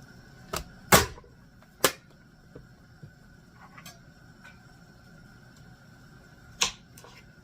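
Four sharp knocks of dishes or kitchenware being set down and handled on a counter, three close together in the first two seconds and one more near the end.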